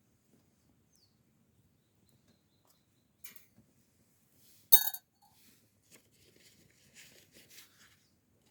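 A single sharp clink of a hard object, like a cup or utensil being set down, about halfway through, ringing briefly at several pitches. Faint rustling follows.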